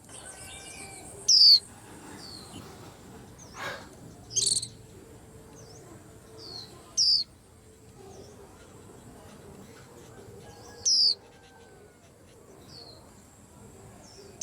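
White-eye (chim khuyên) giving short, sharp chirps that slide downward in pitch, four loud ones a few seconds apart with fainter answering chirps between them.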